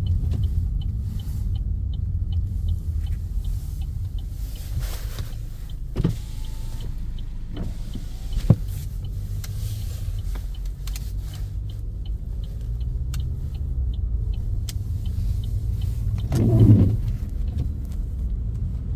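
Steady low rumble of a car driving, with road and engine noise heard from inside. There are short swells about five seconds in and near the end, and a couple of sharp clicks in the middle.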